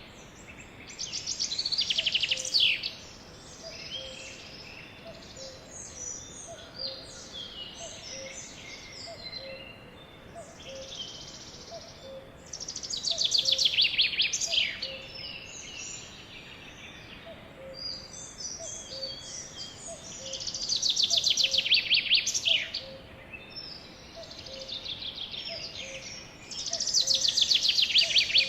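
A sparrow singing: four loud songs, each a fast trill of repeated notes sweeping downward and lasting about two seconds, with softer chirps in between. A faint low note repeats a little faster than once a second underneath.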